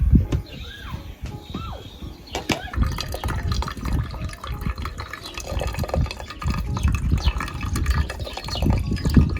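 Running water pouring and splashing unevenly, with drips.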